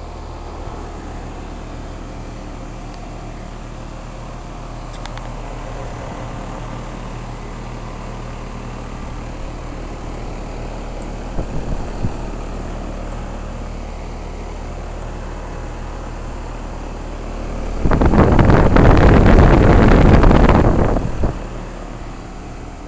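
Carrier central air-conditioner condensing units running, a steady hum of compressor and condenser fan. About eighteen seconds in, a loud rushing noise drowns the hum for about three seconds, then fades back to the hum.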